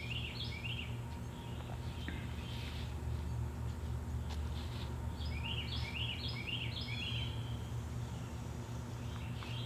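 Bird chirping in two quick bouts of short, stepped notes, one at the start and one about five seconds in, over a steady low hum.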